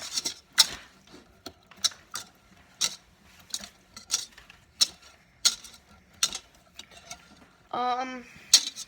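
Wire whisk clinking against the bowl while stirring a cornstarch, water and food-colouring mix, a sharp clink about every two-thirds of a second.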